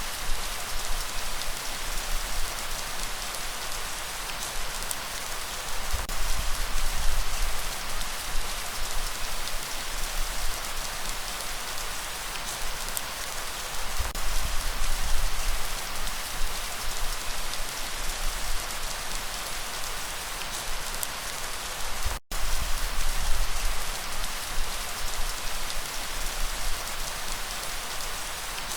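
Steady rain hissing, with a deep low rumble underneath that swells and fades every several seconds. About three-quarters through, the sound cuts out for a split second.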